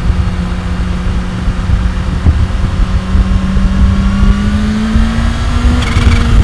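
Kawasaki Ninja H2's supercharged inline-four engine and exhaust on a ride, at a steady low pitch that slowly rises as the bike gathers speed, then drops near the end.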